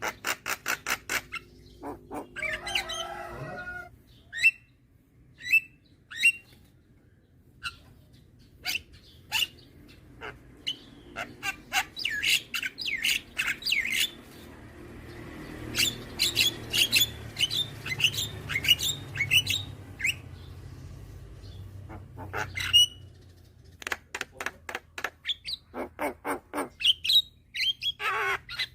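Young Javan myna (jalak kebo) calling: rapid runs of sharp clicking notes, short rising whistles and harsh chattering, with a dense stretch of fast notes in the middle. A low hum lies underneath.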